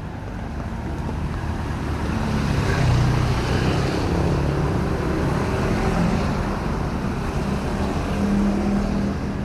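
Motor traffic on a wet road: engine hum and tyre hiss of passing vehicles, swelling about three seconds in and easing off near the end.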